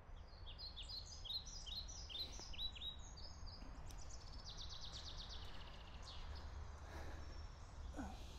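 Small birds chirping outdoors: quick high chirps repeated several times a second, then a fast trill about halfway through, over a steady low background rumble.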